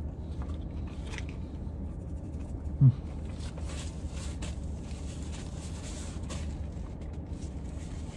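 A man quietly chewing a burger and handling food and napkin, small clicks and rustles over a steady low hum in a car cabin, with a short hummed 'mm' about three seconds in.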